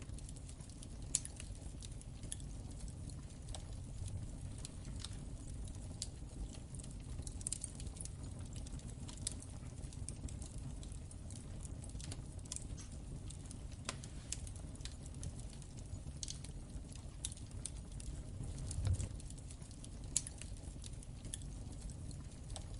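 Wood fire crackling in a fireplace: irregular small pops and snaps over a low steady rumble of the flames, with a soft low swell of the fire about 19 seconds in.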